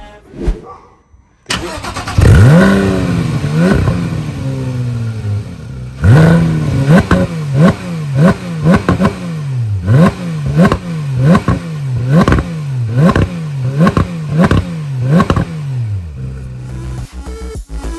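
Porsche 911 GT3 RS's naturally aspirated 4.0-litre flat-six starts about two seconds in, flares up and settles to idle. It is then revved in a run of about fifteen quick throttle blips, each sharply rising and falling back, before stopping near the end.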